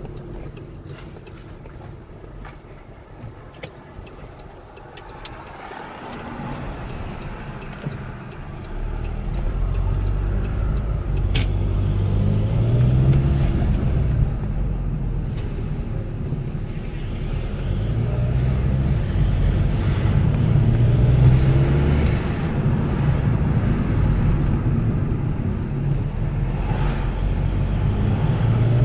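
A Volkswagen-group 2.0 TDI (BKD) turbodiesel pulling under load. It is quiet for the first several seconds, then gets louder about nine seconds in, and the engine note rises twice as the car accelerates. This is a stock engine whose wastegate makes a fluttering 'flufluflu'.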